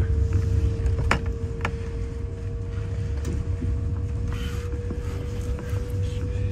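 Passenger train carriage running along the track, heard from inside: a steady low rumble with a constant hum, and a few sharp creaks and clicks from the carriage, two of them about a second in.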